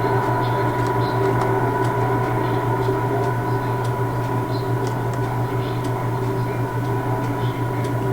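Steady machine hum of trains standing in a railway station, a low drone with a few fixed whining tones above it, with faint ticks scattered through it.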